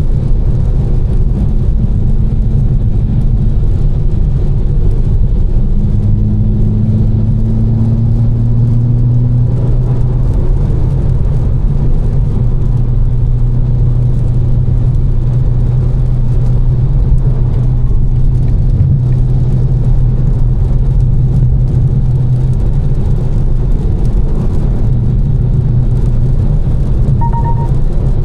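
Tuned BMW M4 cruising, heard from inside the cabin: a steady engine drone over constant road and tyre rumble, the engine note rising slightly a few seconds in. A brief beep sounds near the end.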